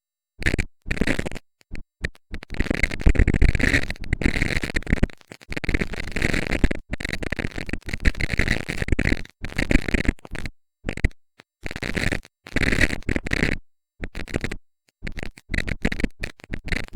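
Harsh, heavily distorted electronic noise in choppy bursts that cut off abruptly to dead silence again and again, typical of audio put through digital distortion effects.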